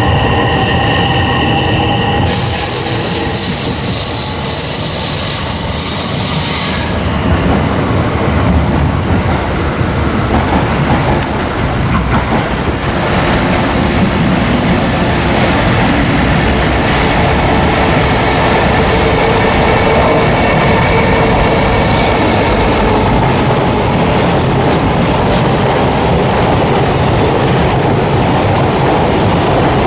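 JR Freight container train hauled by an EF210 electric locomotive running through the station, the container wagons rolling past with a steady rumble and wheel noise. Just before, a 227-series electric train's motors whine steadily for a couple of seconds as it pulls away, and a high steady tone sounds for a few seconds after the cut.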